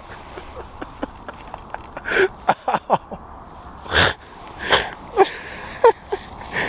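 Short, sharp breaths and brief grunts from a person getting up off a muddy bank after a fall, mixed with the rustle of clothing.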